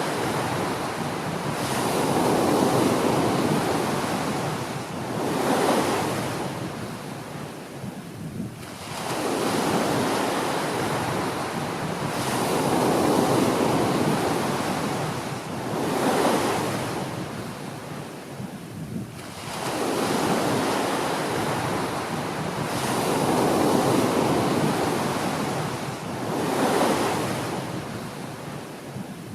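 Small waves breaking and washing up a beach, the surf swelling and falling about every three to four seconds.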